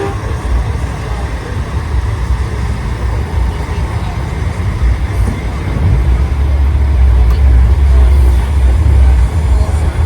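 Heavy diesel trucks rumbling past in a convoy. The deep engine rumble swells about six seconds in as a truck draws closer.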